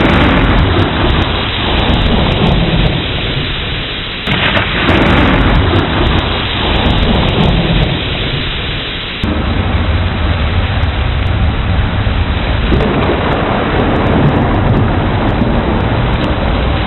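Thunderstorm with heavy rain falling steadily. A crack of thunder breaks about four seconds in and rumbles away over the next few seconds, and the storm noise changes abruptly about nine seconds in.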